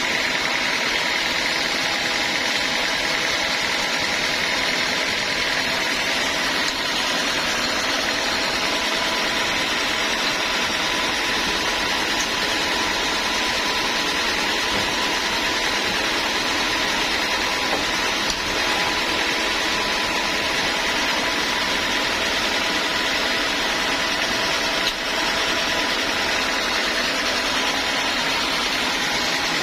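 Homemade band sawmill running steadily, a constant mechanical noise with a steady whine through it.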